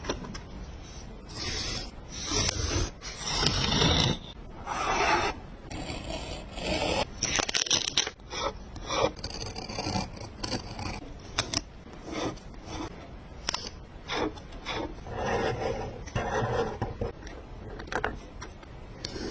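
Paper and stickers being handled on a journal page: irregular rubbing, scraping and rustling strokes with scattered small clicks.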